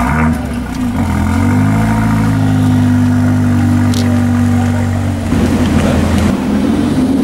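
Mercedes-Benz A45 AMG's turbocharged four-cylinder engine running steadily as the car pulls away at low speed, the note shifting about a second in. Near the end a different engine sound takes over.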